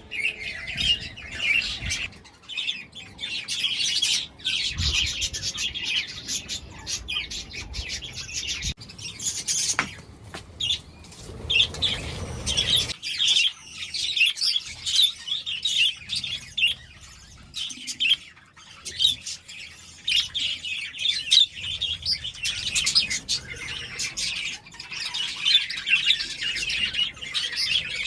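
A colony of budgerigars chattering and chirping continuously, many birds at once, with occasional wing flaps.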